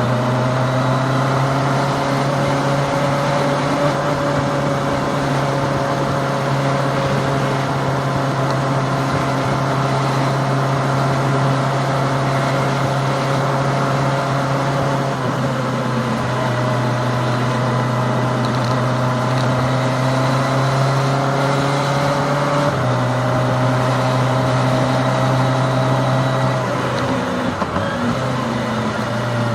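Kawasaki Ninja ZX-25R's 250cc inline-four engine running at steady cruising revs under way, with wind noise beneath it. The pitch shifts slightly a few times and dips briefly near the end.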